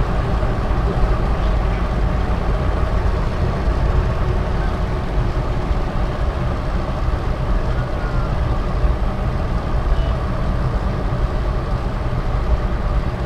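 Suzuki Carry Futura 1.0's engine running steadily while cruising, with tyre and road rumble, heard from inside the cab.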